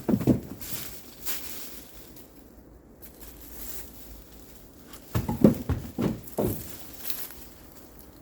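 Pieces of cut firewood thudding and knocking as they are handled and thrown in while being loaded: a cluster of hits at the start and another about five seconds in.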